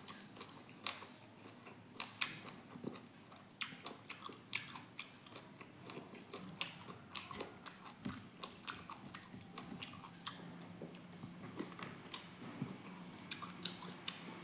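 Close-miked chewing and biting of boiled pork and rice: soft, irregular wet mouth clicks and small crunches, faint.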